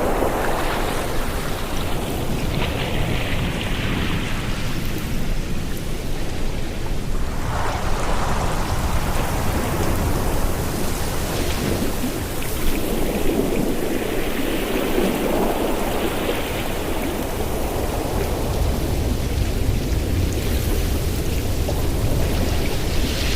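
Ocean waves washing onto the shore: a continuous rushing that swells and eases every few seconds as each wave breaks and draws back, over a steady low rumble.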